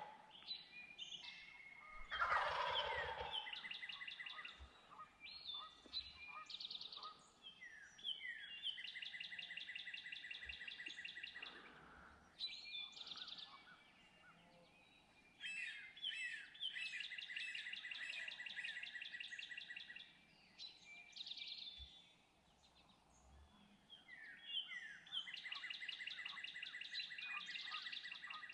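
A wild turkey gobbler gobbles loudly about two seconds in. Afterwards, several long, pulsed trills of a few seconds each repeat in the background, with fainter bird calls between them.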